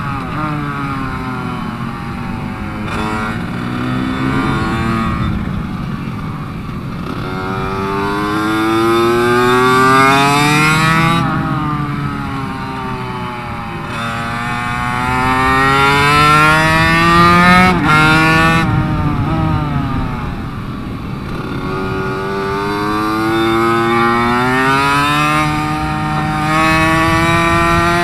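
Racing minibike engine heard from onboard, revving up in long rising pulls and dropping back over and over as the bike accelerates and brakes, with a sudden drop in revs about two-thirds of the way through.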